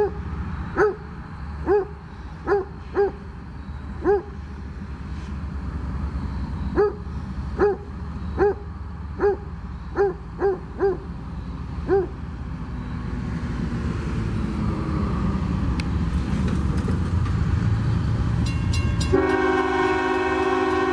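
A train approaching, its rumble building steadily, then a locomotive air horn sounding a steady multi-note chord near the end. Before the train is heard, about a dozen short pitched calls repeat at uneven intervals.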